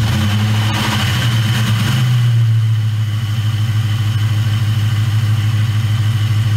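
2004 Jeep engine idling steadily, turning a 250-amp high-output alternator on its stock pulley, with a steady high-pitched whine alongside.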